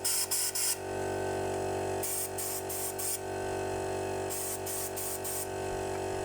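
Hand trigger spray bottle squirting diesel onto an engine: groups of four or five quick hissing sprays about every two seconds, over a steady hum.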